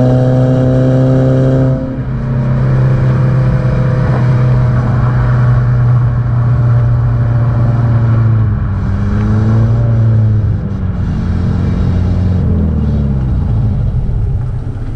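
Subaru Impreza 1.5R's flat-four boxer engine and exhaust running under way at steady revs, the engine note dropping in pitch near the end as the car eases off.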